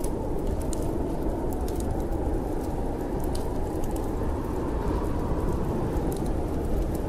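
Steady low rushing of storm wind, with sharp crackles and pops of a wood fire in a fireplace scattered through it.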